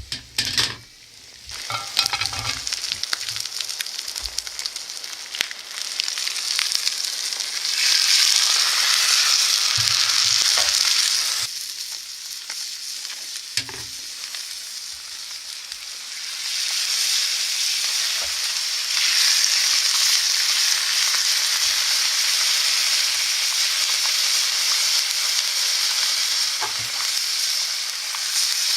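Chicken frying in a Petromax frying pan, sizzling. A few knocks near the start; the sizzle swells louder about a third of the way in, drops back, then rises again and holds.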